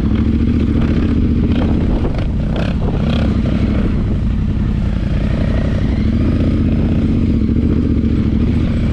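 Yamaha Ténéré 700's parallel-twin engine running at a steady pace off road, with a few clattering knocks over the rough track between about one and three seconds in.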